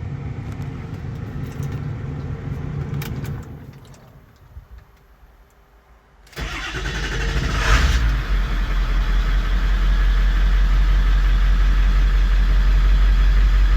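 Ford 7.3 Power Stroke turbo-diesel V8 cold start: after a low hum dies away to near quiet, the engine fires about six seconds in, flares once, and settles into a loud, steady diesel idle, running good.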